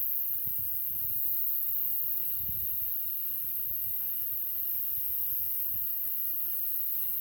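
Pig's trotters grilling over a wood campfire: a steady, high hiss of light sizzling with soft low rumbles from the fire.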